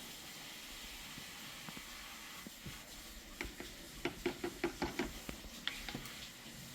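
A quick run of light knocks and clicks, about half a dozen in a second and a half just past the middle, with a few scattered single taps, over a faint steady hiss: small objects being handled.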